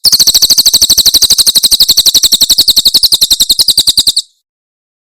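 Cililin bird's rapid-fire 'tembakan' song: a fast, even train of high-pitched notes, about a dozen a second, loud for about four seconds before stopping abruptly.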